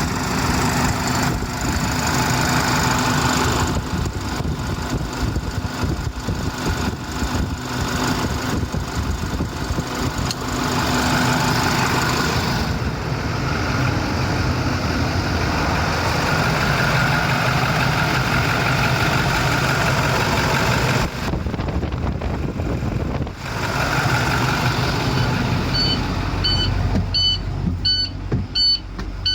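International MaxxForce 7 V8 diesel engine running steadily at idle. Near the end a high electronic beeping starts, about two beeps a second.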